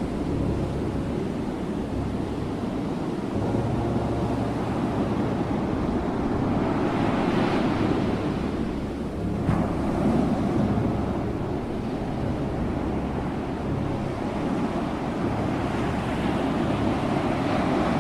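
Ocean waves breaking on a shore: a continuous rushing wash of surf that swells as a wave breaks about seven seconds in and again near the end.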